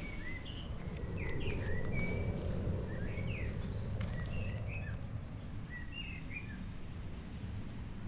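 Small birds chirping: many short, quick calls, several a second, over a steady low rumble of background noise.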